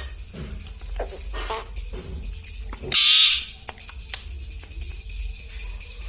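Indian ringneck parrot making a short harsh screech about three seconds in, amid faint clicks and soft low sounds.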